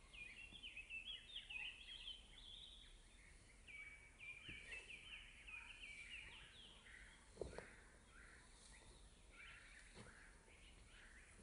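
Faint birds calling: rapid runs of short high chirps that thin out after about seven seconds, with a single soft knock about seven and a half seconds in.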